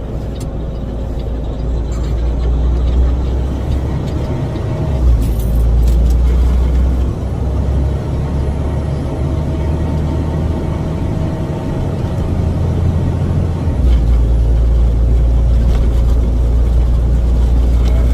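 Delivery truck's engine running as the truck drives, a steady low rumble that swells about five seconds in and again about fourteen seconds in.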